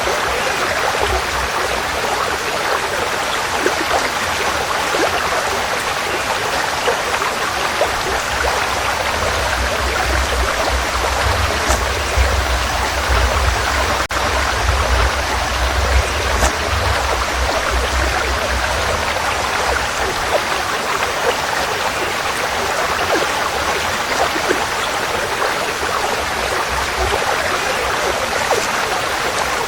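Forest stream flowing: a steady, even rush of running water, with a deeper low rumble that swells through the middle of the stretch and fades again.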